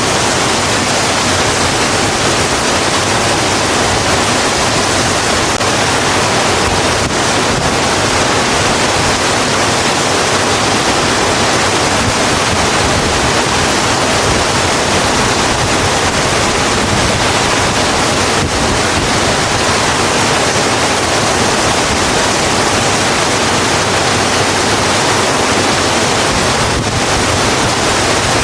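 Steady, heavy rain falling, an even hiss with no breaks and no change in strength.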